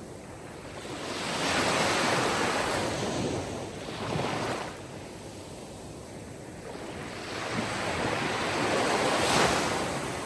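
Sea surf washing on the shore, with two waves surging in and ebbing: one builds about a second in, and another near the end.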